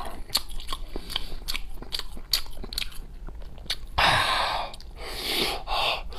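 Close-miked eating of braised pig's head meat: a run of quick, wet mouth clicks and smacks, then louder, rougher chewing noise from about four seconds in as a big forkful goes into the mouth.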